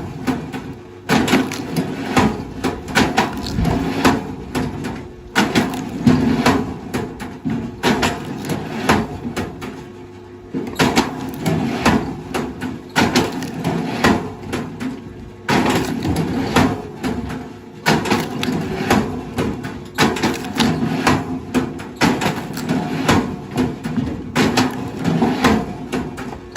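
Wood cracking, splintering and knocking as heavy forestry machinery works on stumps or timber, in dense runs broken by short pauses, with the machine's engine humming underneath.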